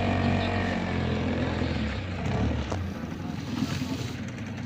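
Motorboat engine running with a steady low hum; the engine note fades about three seconds in, leaving a weaker background rumble.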